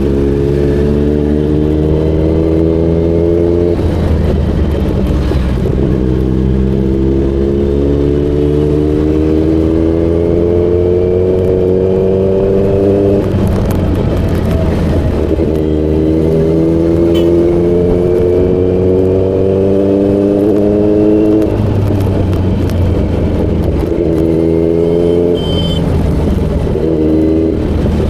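Kawasaki Z900's inline-four engine accelerating through the gears. The revs climb steadily for several seconds, then drop sharply at each upshift, three times over.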